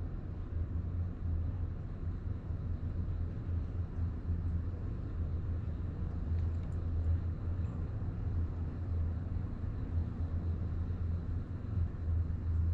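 Honda Grom 125's single-cylinder engine running steadily with a low rumble.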